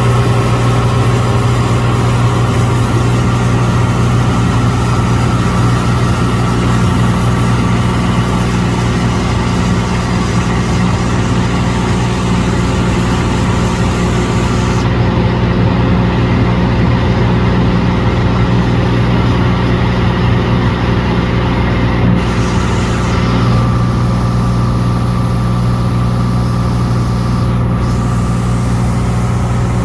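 Cessna 182 Skylane's piston engine and propeller running with a steady, loud drone and a deep hum; the hiss at the top of the sound drops off abruptly about halfway through.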